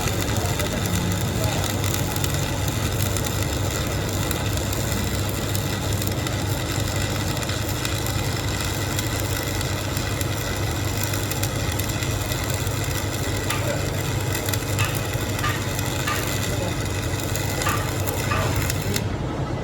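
Steady metalworking noise on a broken heavy gear: dense crackling over a low, constant machine hum. The crackle thins in the highest pitches just before the end.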